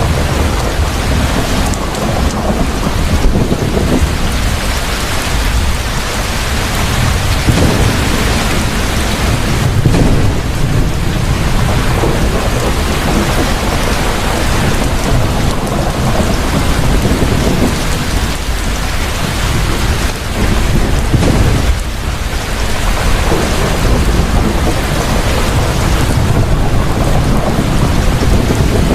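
Heavy rain falling steadily, with thunder rumbling low underneath, swelling and fading a few times.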